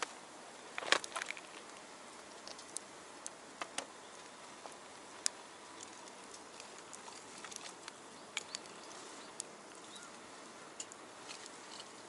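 Wood fire crackling in a small box stove, with scattered sharp pops over a low steady hiss and a louder burst of cracks about a second in.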